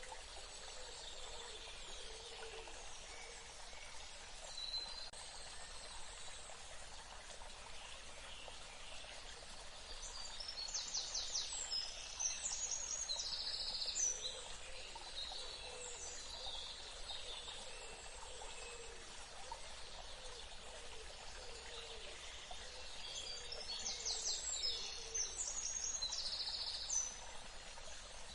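Steady running water, like a stream, with birds calling over it. Chirps and quick trills come in two bouts: one about ten seconds in, and again near the end.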